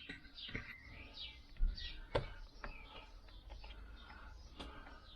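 Birds chirping in short, high, repeated calls, with a couple of sharp clicks, about two seconds in and again near the end.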